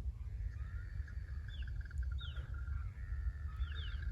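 Birds calling: quick down-slurred chirps in twos and threes over longer warbling, trilling phrases of about two seconds, with a steady low rumble underneath.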